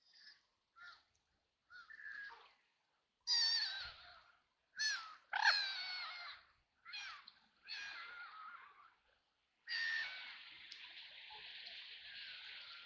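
Domestic white ducks quacking: a series of short, harsh, nasal calls, loudest in the middle. Near the end a steady hiss starts abruptly and runs on.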